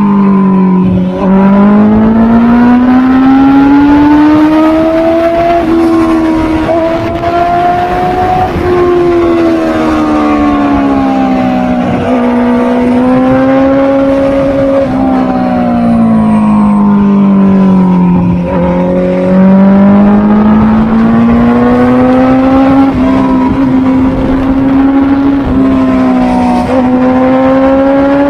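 Honda CB650R's inline-four engine running under way, its note climbing and falling slowly over several seconds at a time, with a few sudden brief drops in pitch.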